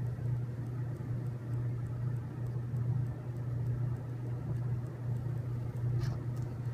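A steady low hum, with a faint click about six seconds in.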